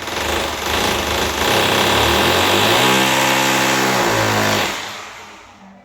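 Electric motor running at speed with a rattling, even whine for a few seconds, then winding down near the end.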